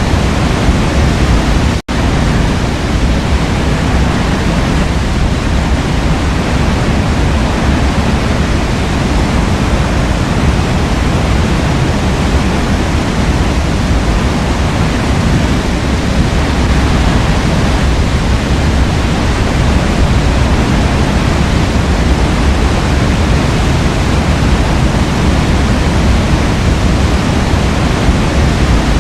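Waterfall pouring in a steady, loud rush of water, with a momentary break in the sound about two seconds in.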